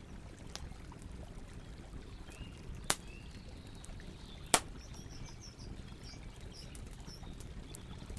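Wood campfire crackling, with scattered small ticks and two sharp pops about three and four and a half seconds in, over the steady rush of river water. Birds chirp faintly in the middle.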